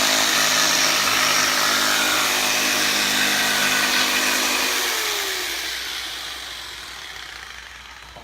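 Electric jigsaw running and cutting wood, its motor giving a steady whine over blade noise. About five seconds in it is switched off and the whine drops in pitch as the motor winds down, the sound fading away.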